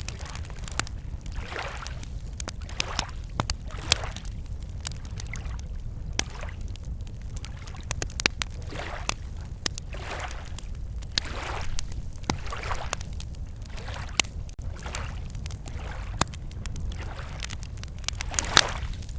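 Campfire crackling, with sharp wood pops scattered irregularly throughout, over gentle lake waves lapping at the shore in soft swells every second or two. A steady low rumble runs underneath.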